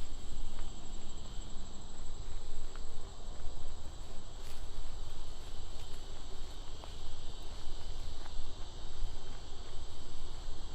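Steady high-pitched insect chorus, crickets or cicadas, buzzing throughout, over a low rumble and a few faint clicks.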